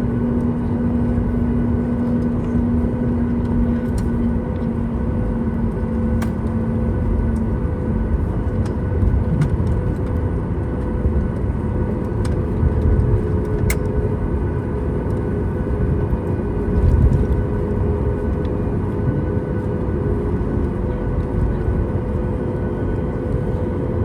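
Boeing 737 MAX 8 cabin during takeoff: the CFM LEAP-1B engines at takeoff power over a deep, steady rumble. A steady hum stops about seven seconds in, and there are a few louder swells of rumble.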